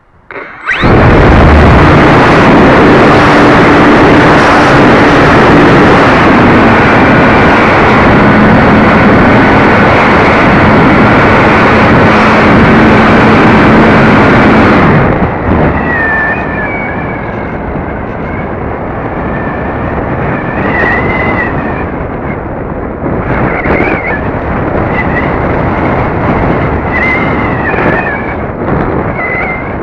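Wind rushing over the microphone of a cheap keychain camera riding on an RC glider in flight, very loud and rough, with a steady hum in it that drops slightly in pitch. About halfway through the rush falls somewhat and wavering whistles come and go over it.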